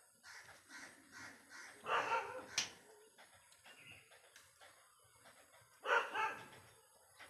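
A dog barking: two louder barks about four seconds apart, with fainter, shorter sounds before the first.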